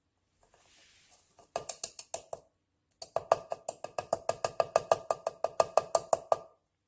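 Electric conical burr coffee grinder's grind-size adjustment clicking through its detents: a few separate clicks, then a fast, even run of about seven clicks a second.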